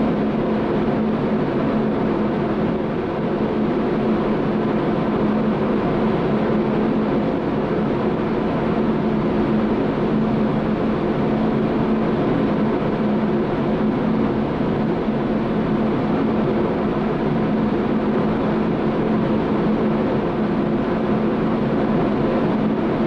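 Paint spray booth's air system running steadily: a constant rushing noise with a low hum.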